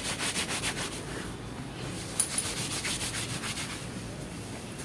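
Thin wet cotton gamchha being rubbed briskly against long wet hair: fast, even rubbing strokes at several a second, easing off briefly in the middle.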